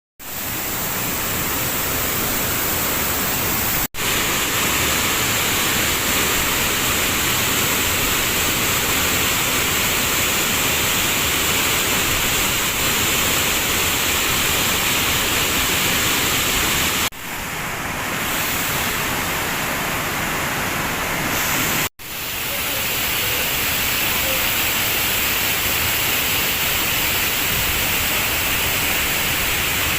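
Waterfall: a steady rush of falling water. It cuts out for an instant about 4 and 22 seconds in, and changes tone briefly around 17 seconds.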